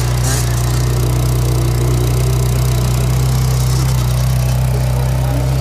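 Ferrari 458's 4.5-litre V8 idling steadily with a deep, loud hum that holds one pitch.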